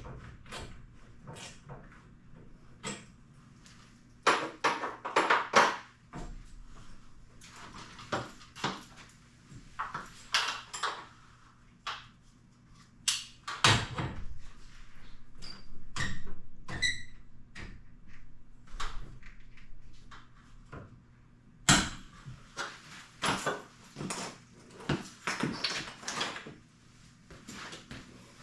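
Scattered metallic clanks, clicks and knocks of hand tools on garage door torsion-spring hardware as it is being worked on, in clusters, with one short ringing metal tone a little past the middle. A steady low electrical hum runs underneath.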